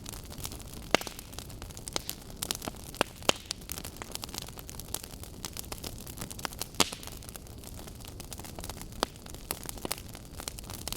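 Burning wood logs crackling, with irregular sharp pops over a low steady rush of flame; the loudest pops come about a second in and a little before seven seconds.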